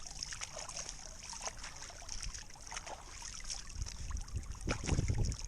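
Water trickling with small scattered splashes and drips. Low wind rumble on the microphone comes in during the last second or so.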